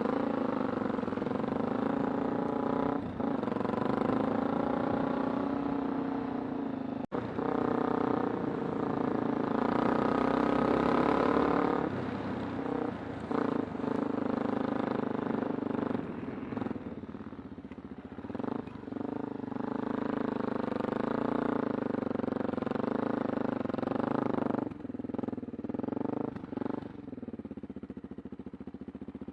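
Kawasaki Super Sherpa's 250 cc single-cylinder four-stroke engine running while the bike is ridden along, the note holding steady and then easing off and picking up again several times. There is a sudden break in the sound about seven seconds in.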